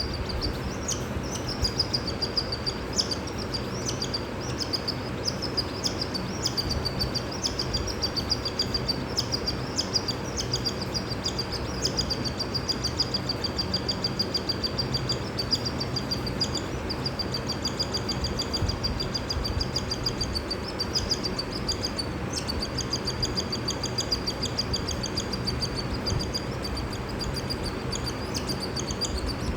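Cockatiel chick giving rapid, high begging calls while being hand-fed, in a near-continuous string of short notes with a brief break about two-thirds of the way through. A steady low background noise runs underneath.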